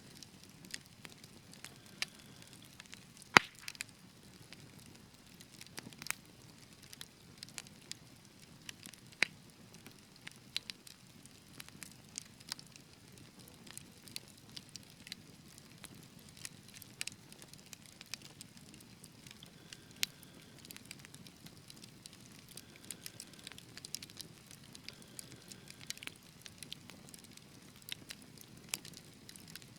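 Wood fire burning in a fireplace: a soft low rush of flames with irregular sharp crackles and pops, one loud pop about three and a half seconds in.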